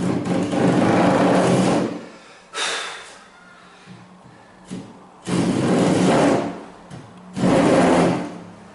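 Wood handsaw cutting through a length of timber in slow, rasping strokes: a long stroke, a short one, then two more long strokes after a pause.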